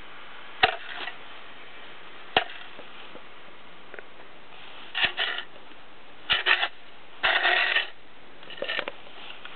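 Excavator bucket working snow: sharp clunks, about five, and short scraping, crunching bursts, the longest lasting about half a second near the end.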